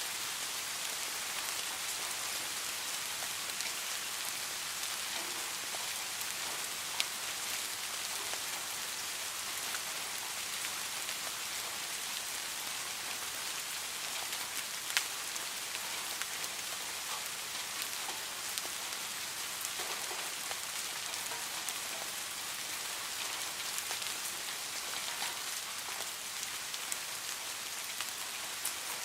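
Steady rain falling, an even hiss with many small drop ticks; a couple of single drops land louder, about seven and fifteen seconds in.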